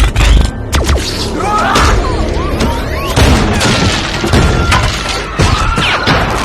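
Film action soundtrack: a music score under repeated crashes, shattering and heavy booms, with a big low impact right at the start.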